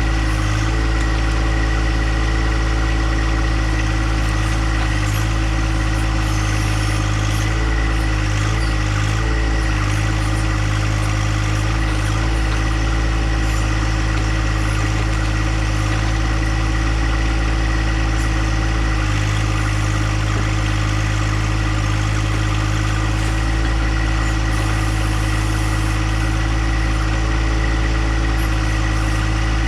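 Compact John Deere tractor engine running steadily, with a steady high whine over its low drone.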